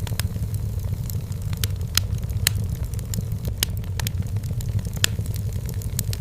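Firewood crackling in a fireplace: irregular sharp pops and snaps, several a second, over a steady low rumble.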